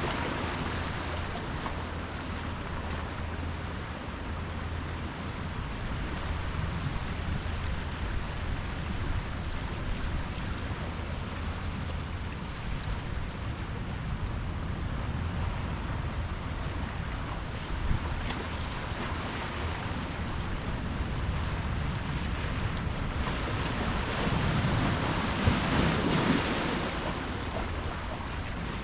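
Ocean waves washing in, a steady surf hiss with a low rumble, and a louder wave breaking near the end.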